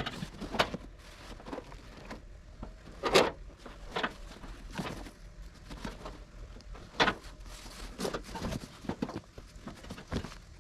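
A large plastic bag rustling and crinkling, with scattered knocks, as a folded fire pit is wrapped up in it; the sharpest knocks come about three seconds in and about seven seconds in.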